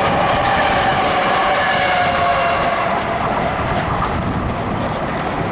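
Long Island Rail Road electric train passing close by, wheels clicking over the rails with a whine from the motors that falls slowly in pitch. The sound eases a little toward the end.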